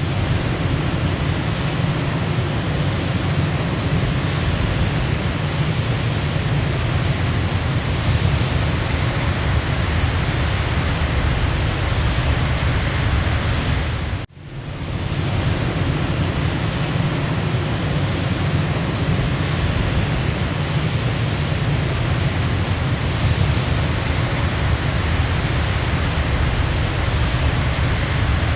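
Waterfall: a steady rush of falling water, heavy in the low end, that dips out briefly about halfway through and comes straight back.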